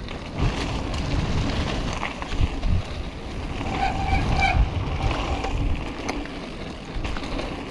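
Wind rushing over the microphone and a mountain bike running fast down a wet dirt jump trail, its tyres and frame rumbling and rattling with irregular thumps. A brief high squeal about four seconds in.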